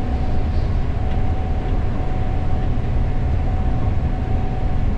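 Steady low drone of a Gleaner S98 combine's engine and threshing machinery while harvesting corn, heard from inside the cab.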